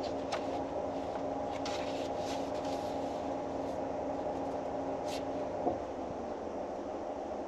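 Steady mechanical hum inside a parked car, which drops and softens with a small click about six seconds in. A few faint soft rustles sound over it.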